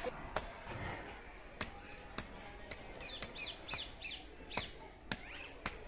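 Small birds chirping in short repeated calls, with about ten sharp clicks or taps scattered irregularly through.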